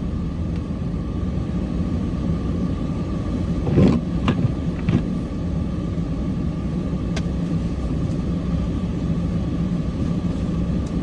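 Cummins diesel engine of a snowplow truck running steadily, heard from inside the cab, with a faint steady whine. A few knocks come about four to five seconds in, and a single click a little later.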